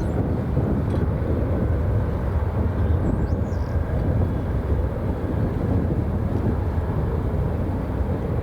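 Jet airliner engines making a steady low rumble that holds at an even level throughout, with a faint thin whine above it.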